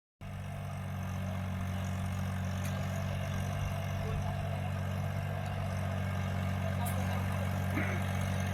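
Mahindra OJA 2124 compact tractor's 24 HP diesel engine running steadily at a constant, low speed.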